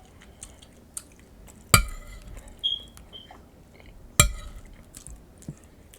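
Tableware clinking: two sharp knocks of a utensil against a dish, each with a short ring, about two and four seconds in, with a few faint taps between.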